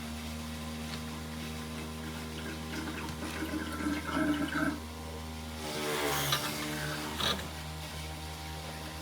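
Aidoo 1 kg mini washing machine with a steady electric hum under it, and water gushing and splashing in two bursts around the middle.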